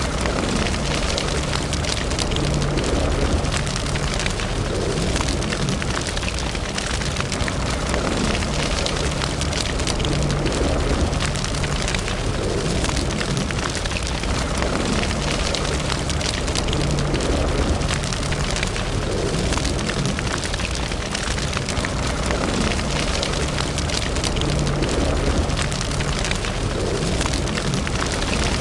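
Wood fire burning in a fireplace: steady, dense crackling with many small pops over a low rumble.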